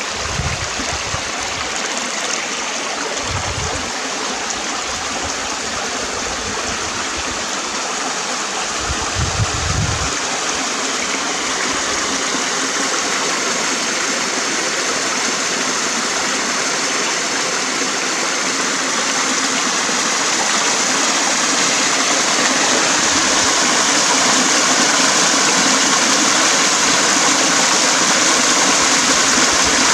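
Running water of a stream, a steady rushing flow that grows slightly louder in the second half. A few brief low rumbles come through in the first ten seconds.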